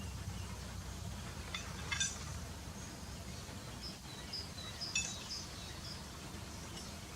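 Wild birds chirping over a steady low rumble of background noise: a sharp call about two seconds in and another about five seconds in, with a run of short high notes between them.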